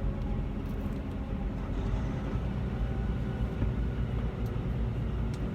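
Semi-truck tractor driving at a steady road speed of about 40 mph with no trailer, heard from inside the cab: a steady low rumble of engine and road noise.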